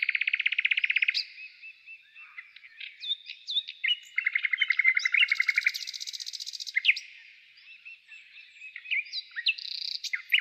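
Several songbirds singing: rapid trills of repeated notes at the start and again around four seconds in, mixed with scattered chirps, whistles and a buzzy phrase.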